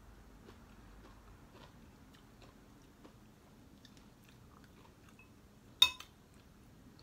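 Quiet chewing and small mouth clicks of someone eating. About six seconds in, a single sharp, ringing clink against a bowl.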